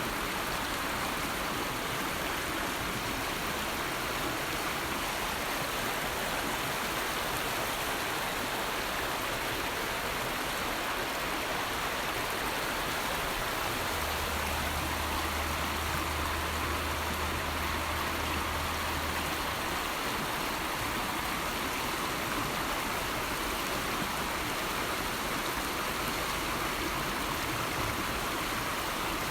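River water flowing steadily, a continuous even rushing without breaks. For about five seconds midway a low steady rumble sits under it.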